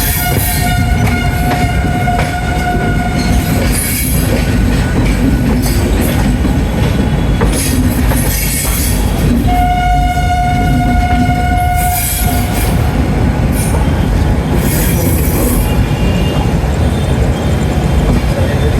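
Gatimaan Express arriving, a loud steady rumble of the train rolling through the station with high-pitched hissing squeals from the wheels. Its horn holds one steady note until about three and a half seconds in, then sounds a second long blast about nine and a half seconds in that lasts some two and a half seconds.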